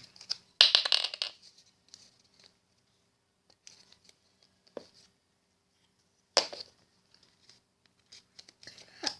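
Paper being handled and glued with a glue stick: a brief rustling scrape about half a second in, a sharp click a little past six seconds, and a few faint taps and ticks.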